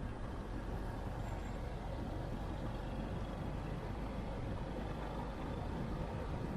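Steady low rumble of outdoor city traffic.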